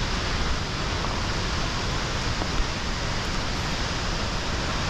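Waterfall close by: a loud, steady rush of falling water and spray.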